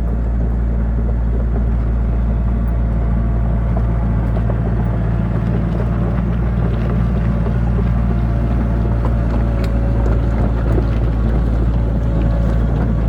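Heavy diesel engine running steadily at a constant speed, a low, even drone.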